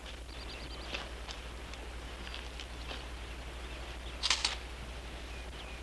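Quiet outdoor ambience with scattered birdsong: short high chirps and a quick trill near the start, and one brief louder sound about four seconds in, over a steady low hum.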